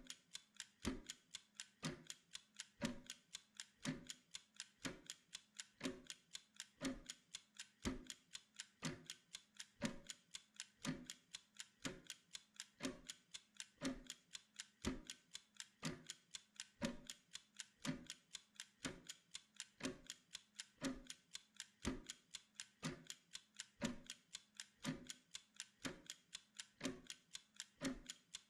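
Clock ticking steadily, about two ticks a second, as a timer sound track.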